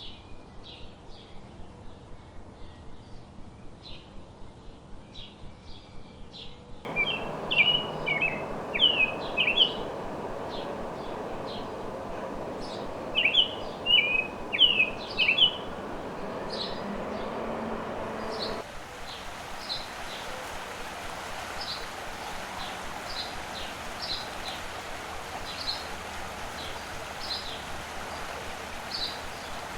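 Songbirds calling over a steady background hiss: first a run of quick high chirps, then loud clusters of downward-slurred calls, then evenly spaced high chirps, with abrupt changes of background as separate recordings are spliced together.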